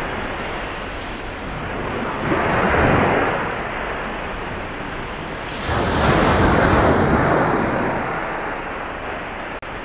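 Sea waves breaking and washing up a beach, with two louder surges a few seconds apart over a steady wash of surf. The sound drops out for an instant near the end.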